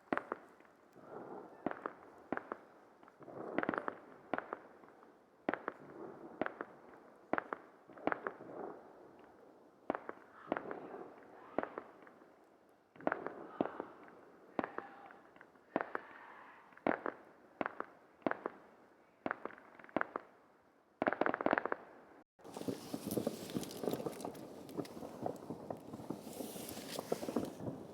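New Year's fireworks going off: a run of sharp, separate bangs, about one or two a second, each with a short echoing tail. About 22 seconds in the sound cuts to a dense, rapid crackling.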